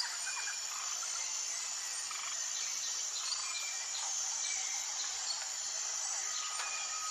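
Forest ambience: birds giving many short chirps and calls over a steady high-pitched insect drone. Near the end one bird starts a long held whistle.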